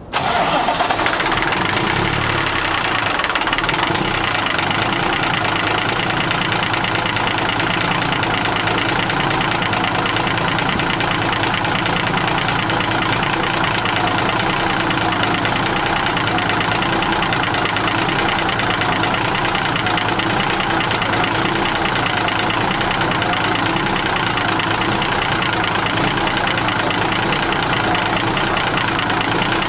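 Caterpillar 3406B inline-six diesel truck engine catching on a cold start right at the beginning and then idling steadily with an even, rhythmic beat.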